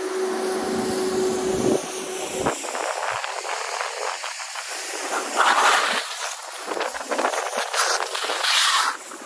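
Wind blowing in gusts across the microphone, with a steady low hum for the first two seconds or so.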